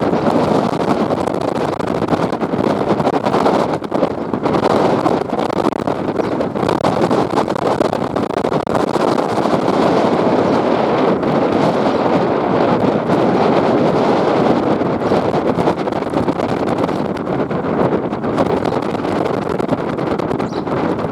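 Steady rush of wind buffeting the microphone aboard a moving boat, mixed with the noise of the hull and motor over the water.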